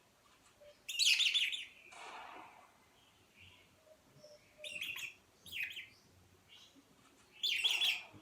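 High-pitched bird chirps in four short bursts: one about a second in, two close together past the middle, and one near the end.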